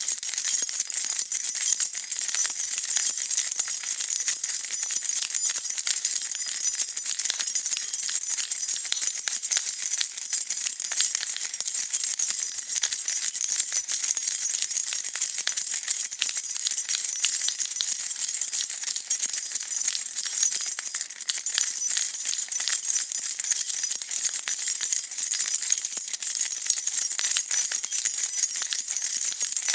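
A bunch of metal keys being shaken continuously, a dense, steady jingling of many small metallic clinks.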